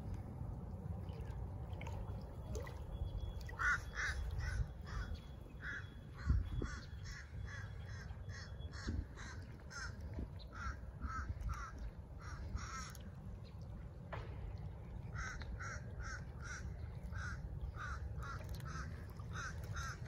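A bird calling in long runs of short, harsh, evenly spaced calls, about two a second, which stop briefly twice. A steady low rumble sits underneath.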